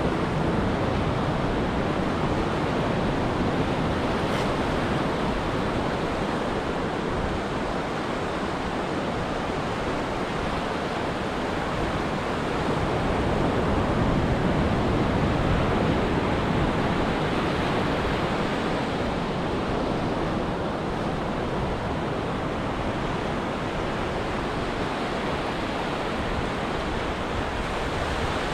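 Ocean surf breaking on a beach: a steady rush of waves that swells a little just before halfway through.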